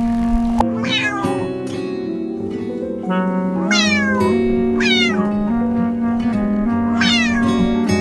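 Cat meows, about four short calls each falling in pitch, over gentle background music with sustained notes.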